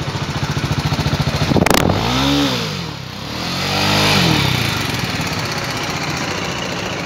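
BMW G 310 GS's 313cc single-cylinder engine idling with an even, rapid thump, then revved twice, the pitch rising and falling back each time, before settling back to idle. A short sharp click comes just before the first rev.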